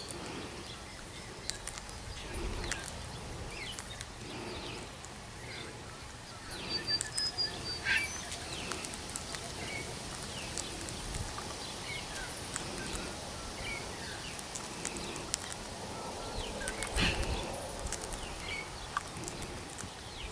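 Wild Australian king parrot feeding from a hand: scattered soft clicks and rustles of its beak on the seed, with a few short bird chirps about seven to eight seconds in and a low thump or two.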